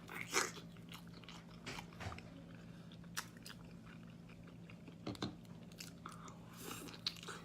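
A person biting and chewing a big chunk of raw salmon sashimi: scattered wet smacks and clicks of eating over a faint steady hum.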